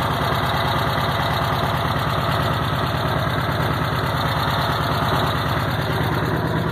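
Air-cooled 1600 VW flat-four with electronic fuel injection idling steadily.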